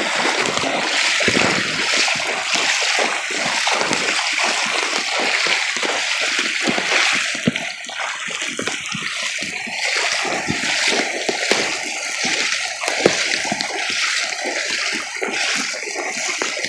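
Floodwater splashing and sloshing steadily, as a truck pushes through a flooded street.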